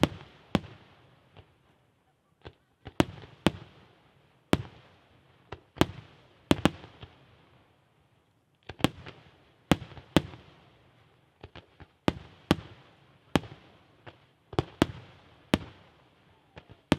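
Aerial firework shells bursting overhead: an irregular string of about twenty sharp bangs, each with an echoing tail. Lulls come around two seconds in and around eight seconds in, then the bangs come more thickly.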